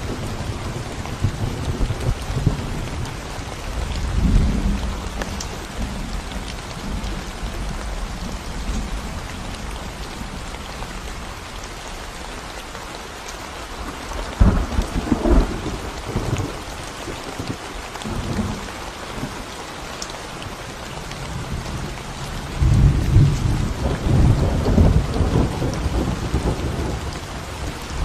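Steady rain falling on a concrete road, an even hiss of drops. Low rumbles swell up a few seconds in, again midway, and longest and loudest near the end.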